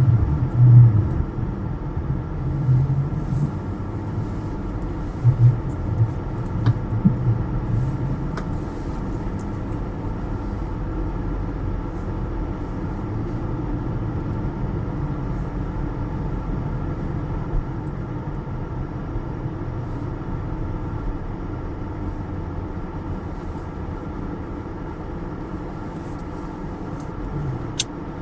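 Car engine running, heard from inside the cabin as a steady low rumble, with a few louder low bumps in the first several seconds.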